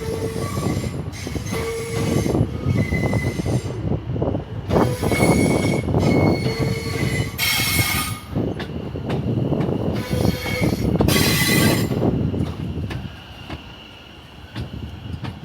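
Passenger train running along the platform with rumbling from the wheels and track, and a squeal from the wheels that comes and goes. The rumble dies away about thirteen seconds in.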